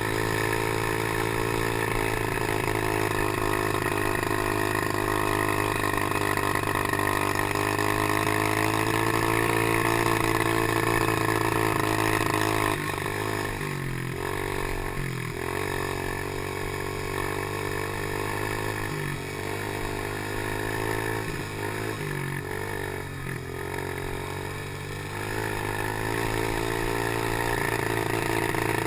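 Small engine of a PY90 geared motorcycle running hard at steady revs, then the throttle eases off and the revs dip and pick up again several times before settling back at speed near the end.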